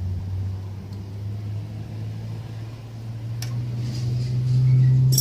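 A steady low mechanical hum that rises slightly in pitch near the end, with a sharp click about three and a half seconds in and a ringing metal clink as it ends, like a steel tool knocking on metal.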